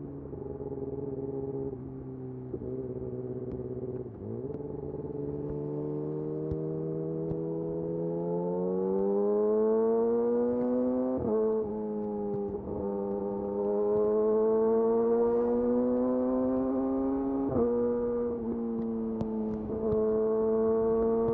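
Yamaha YZF R6's inline-four engine through a de-catted Akrapovic slip-on exhaust, on the move. It holds a low steady note, then revs climb and the note grows louder from about eight seconds in, with several brief sharp dips in pitch before it settles at a higher steady note.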